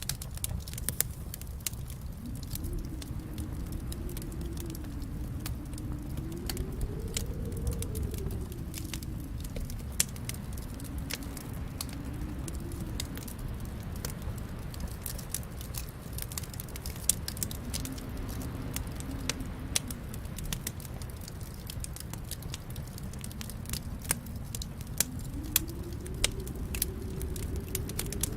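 Wood fire crackling in a fireplace: a steady low rumble of flames with scattered sharp pops and snaps, and a faint tone that slowly rises and falls beneath them.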